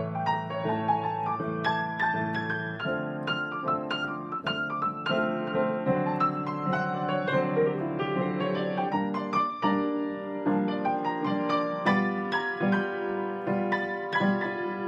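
Piano music played as a steady stream of quick notes over sustained low chords.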